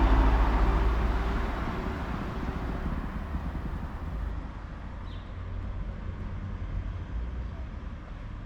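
Outdoor street ambience: a steady low rumble of road traffic, slowly fading.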